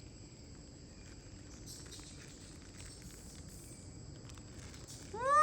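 Quiet outdoor background with a steady high insect drone and faint rustling and ticks. At the very end a loud, high call begins, rising and then falling in pitch.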